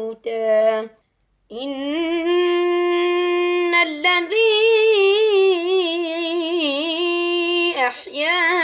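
A male Quran reciter chanting in melodic tajweed style. After a short pause about a second in, he holds one long ornamented note for about six seconds, its pitch wavering in melismatic turns.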